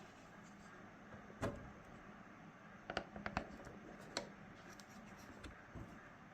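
A few sharp metal clicks and taps: one about a second and a half in, a quick cluster around three seconds, and one more a little after four seconds. They come from a pick prying at the clip that holds a dryer's control panel to its sheet-metal front.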